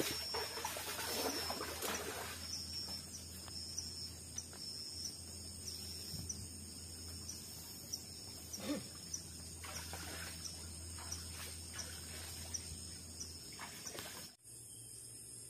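Tropical forest insects chirping in a steady high pulse, about two pulses a second, with rustling and a few knocks from movement in the first couple of seconds. The background cuts off abruptly near the end.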